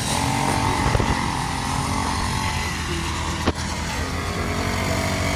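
Pocket bike's small engine running steadily, with one sharp click about three and a half seconds in.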